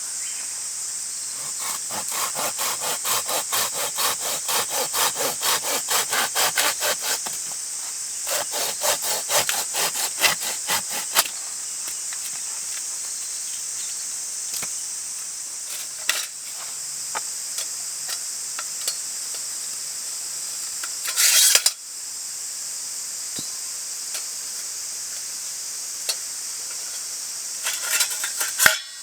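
Hand saw cutting wood in two runs of quick, even strokes, about three a second, then a few scattered knocks and scrapes. A steady high drone of summer insects runs underneath.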